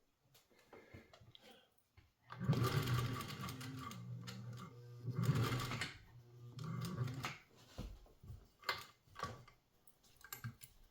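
Singer 201 sewing machine stitching through layers of tough tubular webbing, fleece and flat bungee in three short runs, its motor pitch rising and falling as it speeds up and slows. A few light clicks follow near the end.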